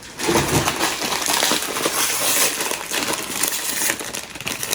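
Chili lime protein chips being shaken out of the bag onto a plate: a dense, continuous crackle of crisp chips clattering against each other and the plate.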